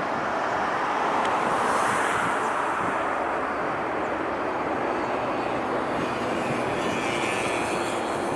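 Airbus A330-900neo jet airliner with Rolls-Royce Trent 7000 engines, heard as a steady, loud jet rush that swells slightly about two seconds in, with a faint high whine later on.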